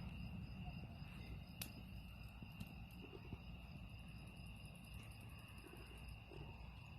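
Faint, steady high-pitched trill of insects, over a low rumble, with a single sharp click about a second and a half in.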